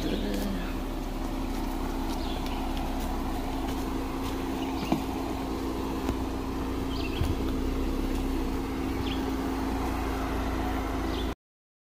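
A Jeep's engine running steadily at low speed, with a few short knocks and clicks. The sound cuts off suddenly near the end.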